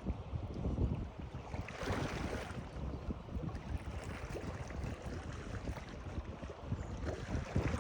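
Water splashing and lapping, with wind rumbling on the microphone; a louder rush of water comes about two seconds in.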